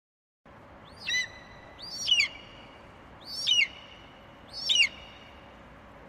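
Bald eagle calling: four short, high piping calls about a second apart, each a quick sweep up and then down in pitch, over a steady faint hiss.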